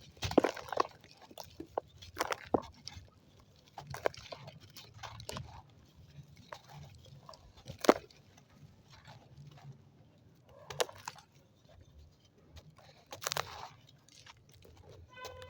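Dry white sand crumbling in irregular crunches and crackles, chunks breaking apart a second or so apart; the sharpest crack comes about 8 seconds in.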